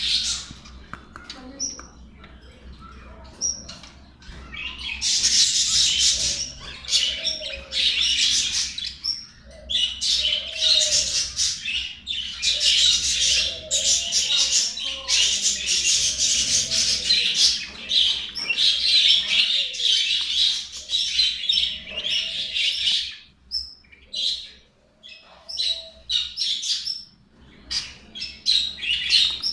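A flock of budgerigars chattering and warbling in long bouts, with a quieter spell near the start and another near the end.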